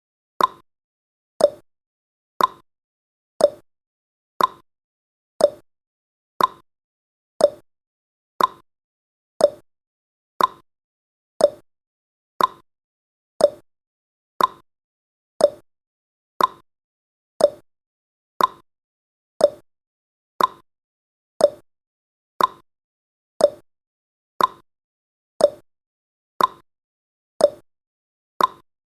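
Clock tick-tock sound effect: one short click a second, alternating between a higher and a lower tick.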